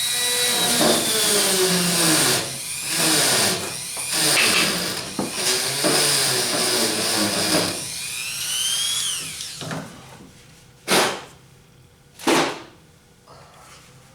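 Dremel rotary tool with a small tip running with a high whine, its pitch dipping and recovering as it grinds rust out of a pit in welded car-body sheet metal; it spins down about nine seconds in. Two sharp knocks follow near the end.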